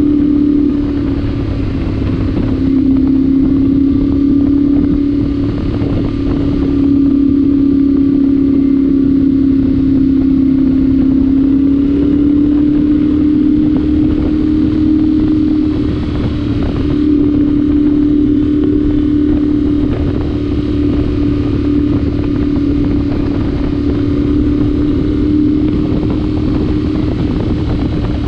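Yamaha Ténéré 700's parallel-twin engine running at a steady cruise, its exhaust note louder with the spark arrestor removed. The pitch drifts gently down and back up as the throttle eases and opens.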